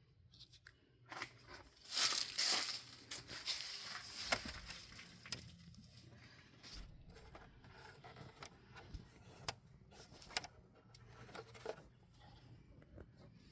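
Work sounds under a truck's hood: scattered clicks and knocks of parts and hand tools being handled, with a louder rustling, scraping stretch of about two seconds starting about two seconds in.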